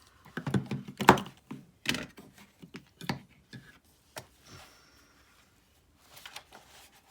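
Craft supplies being moved and set down on a tabletop: a quick run of clicks, taps and knocks, the loudest about a second in, then a lull and a few more light taps near the end.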